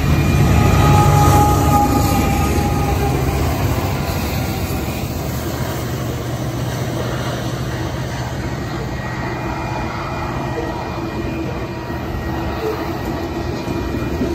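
Freight train passing close by: the diesel engines of mid-train locomotives running as they go past, loudest about a second in, then the steady rolling of loaded covered hopper cars on the rails.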